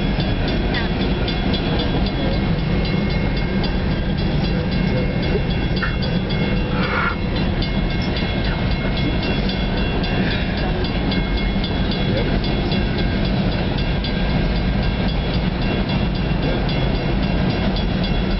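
Long freight train of covered hopper cars rolling past a level crossing: a steady, unbroken rumble of wheels on rail with a fast, even clicking.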